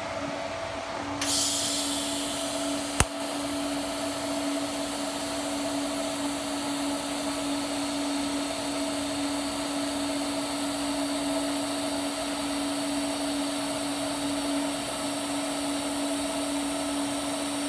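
AC TIG welding arc on aluminum buzzing steadily, from an Everlast PowerPro TIG welder. It comes in with a hiss about a second in, and a single sharp click follows shortly after.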